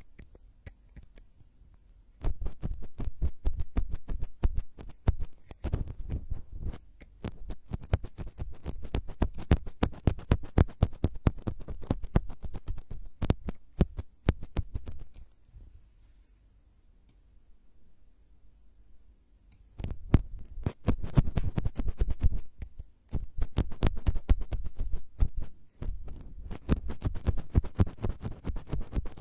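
Close-miked ASMR trigger sounds: rapid, dense scratching and clicking right on the microphone, heavy in the low end. It starts about two seconds in, drops away for a few seconds past the middle, then resumes.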